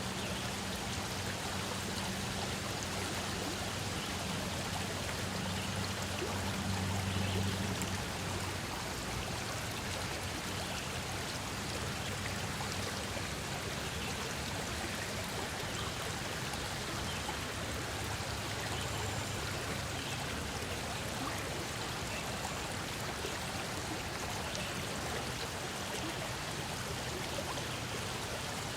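Stream water running steadily, an even rushing hiss. A low steady hum sits under it for the first eight seconds or so, then fades back.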